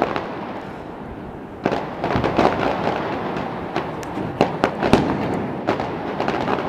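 Aerial fireworks shells bursting in irregular bangs with crackling between them. After a brief lull near the start, the bangs come thick and fast from a couple of seconds in.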